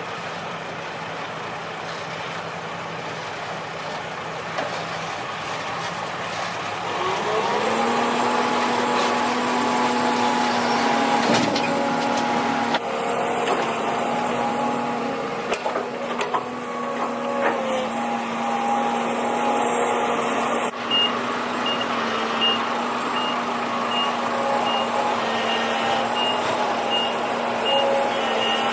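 Heavy earthmoving machine's diesel engine revving up about a quarter of the way in and then running steadily under load. In the last third a reversing alarm starts beeping, about once a second.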